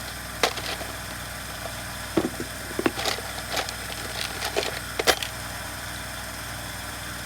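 Scattered sharp clicks and knocks of hand tools on the metal parts of a Stihl MS170 chainsaw as its reverse-threaded clutch is worked loose, over a steady low hum.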